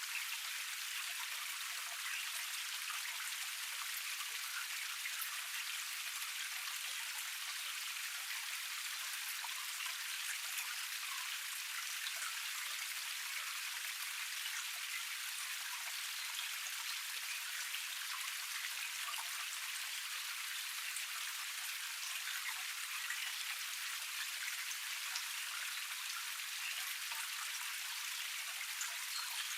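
Small forest cascade: water flowing over a low rock tier and splashing steadily, an even hiss with fine patter of droplets and no low rumble.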